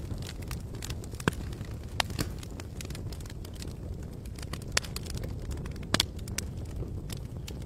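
Wood campfire crackling, with irregular sharp pops over a steady low rush of burning and outdoor ambience; a few pops stand out louder, two of them in quick succession about six seconds in.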